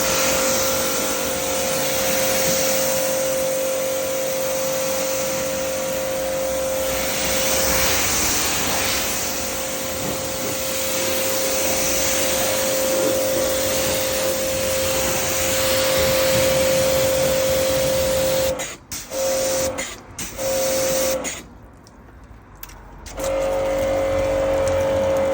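Electric pressure washer running while it rinses a car: a steady motor hum under the hiss of the water jet. Late on it stops and starts several times as the trigger is let go, with one pause of about two seconds before it runs again.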